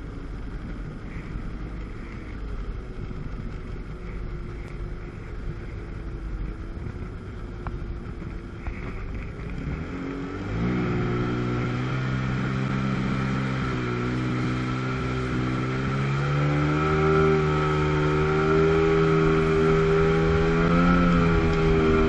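Two-stroke jet ski engine running low for the first half, then the throttle opens about halfway through. The engine gets louder and its pitch climbs to a higher, steady note as the watercraft speeds up.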